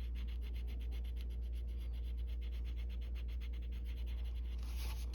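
Coloured pencil scratching on paper in fast, even back-and-forth shading strokes, a little louder near the end, over a steady low hum.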